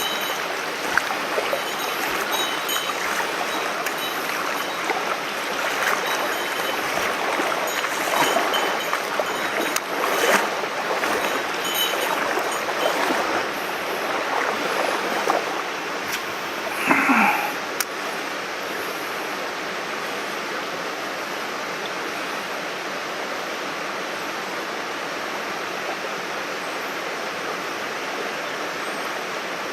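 Mountain stream water running steadily, with scattered clicks and small splashes in the first half and a brief pitched sound a little past halfway; after that only the even rush of the water.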